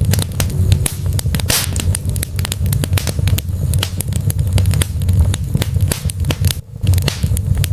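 Wood logs burning in a fireplace: dense, irregular crackling and sharp pops over a steady low rumble of the flames, with a brief lull shortly before the end.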